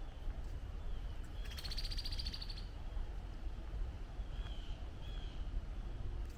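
Songbirds calling: a short, rapid buzzy trill about a second and a half in, then two short slurred whistled notes, over a steady low rumble.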